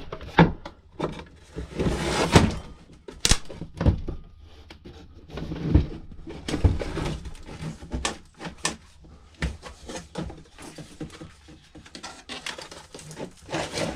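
Scattered knocks, clicks and short scrapes of a karaoke machine's plastic housing and parts being handled and pried apart for scrap.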